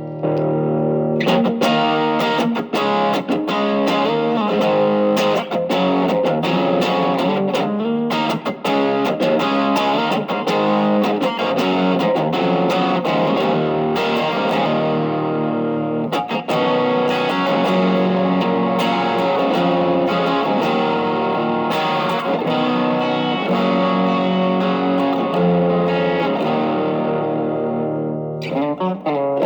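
Electric guitar played through an Ibanez TS808 Tube Screamer reissue fitted with a 1980 Malaysian RC4558P op-amp chip and set as a boost, giving a light overdrive. It plays a run of chords and picked notes that eases off briefly near the end.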